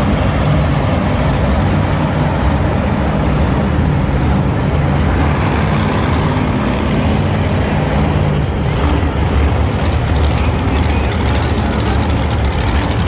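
Monster truck engine running loud and steady, its pitch shifting a little partway through.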